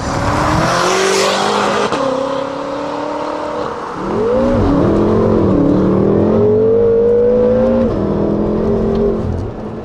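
2013 BMW F10 M5's twin-turbo V8 through an Armytrix valved exhaust with downpipes, accelerating hard. The pitch climbs in several pulls with breaks between them, then the engine eases off about eight seconds in.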